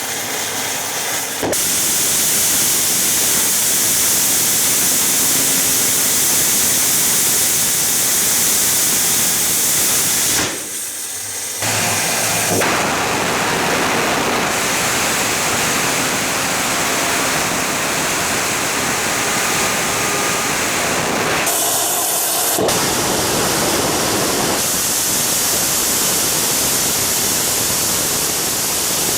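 A 60 kN-class methane/liquid-oxygen rocket engine with a pintle injector and water-cooled combustor firing on a static test stand, a loud steady roaring hiss. It starts suddenly from silence and shifts abruptly in level and tone about 11 and 22 seconds in.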